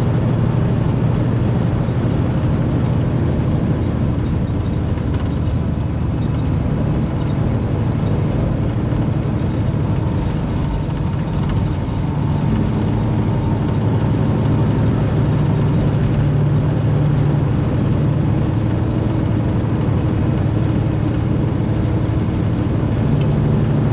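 Semi truck's diesel engine running steadily under way, with a high whine that falls and rises again twice.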